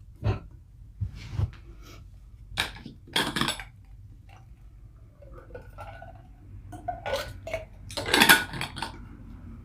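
Close-miked eating sounds: a person chewing and making mouth noises in several short bursts, the longest about three seconds in and the loudest about eight seconds in.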